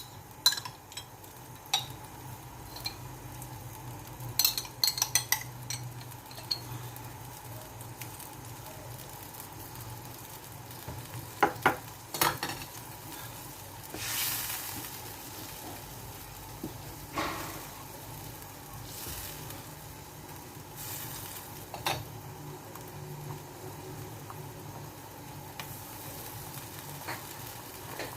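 Chicken wings sizzling in a pan while a metal utensil stirs them, scraping and clinking against the pan in scattered knocks, with a few louder swells of sizzling hiss. A steady low hum runs underneath.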